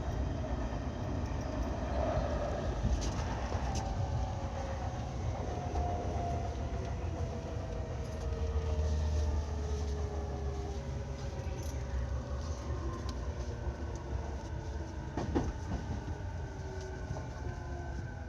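E217-series electric train running: the traction motors' whine falls steadily in pitch as the train slows, over a steady low rumble of wheels on rail. A short sharp click comes about fifteen seconds in.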